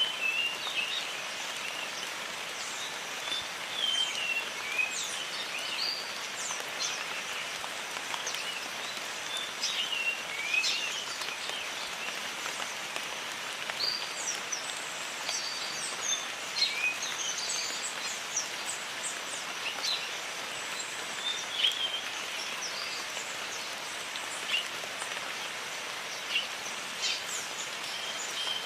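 Jungle ambience: steady rain hiss with many birds chirping and calling throughout.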